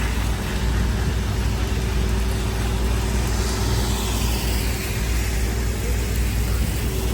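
Street traffic on a wet road: a car passes about four seconds in over a steady low rumble and the hiss of traffic and wind.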